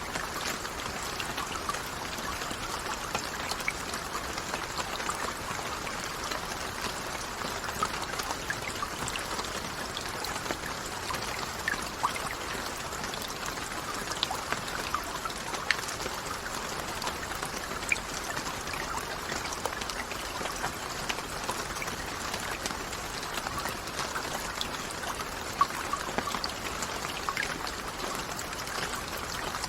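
Steady rain falling, a dense patter of drops with scattered louder individual drips.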